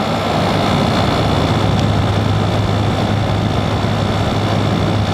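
2009 General Electric 12,000 BTU window air conditioner running and cooling: a steady low compressor hum under the even rush of the fan, which sounds pretty good.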